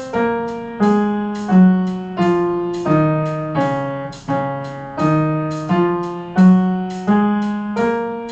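Piano sound playing the D-flat major scale in even quarter notes, about one note every 0.7 s. It steps down the scale and then back up, and each note fades after it is struck.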